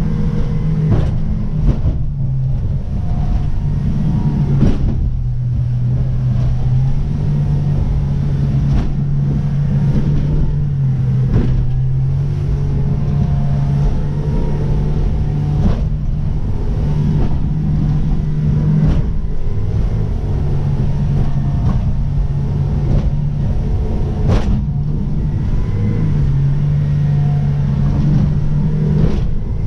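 Merry Fisher motorboat's engine running under way, its pitch stepping up and down as the revs change, over a heavy low rumble. Sharp irregular thumps come through it every few seconds.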